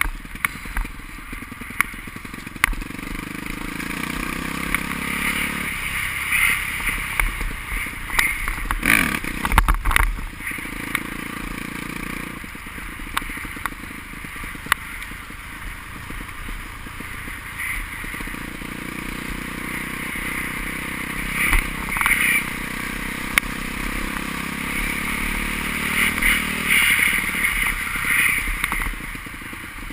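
Motocross motorcycles racing on the track, their engines revving and the sound swelling and fading several times as the bikes pass. A few sharp knocks come about nine to ten seconds in.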